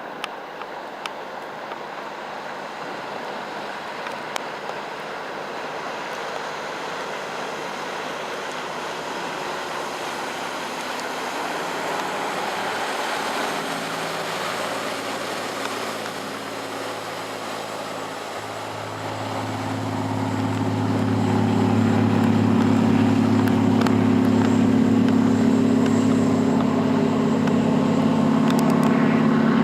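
Yamaha DX-39H fishing boat's engine running under way over a steady rush of wind and water. About two-thirds of the way through, the engine hum grows much louder and stays steady at the louder level.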